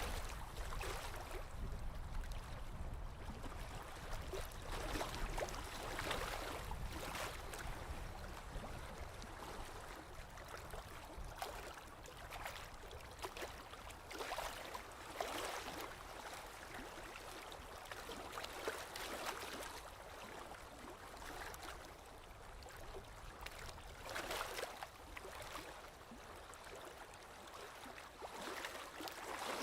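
Small waves lapping against a lake shore, a soft splashing wash that swells and fades every second or two.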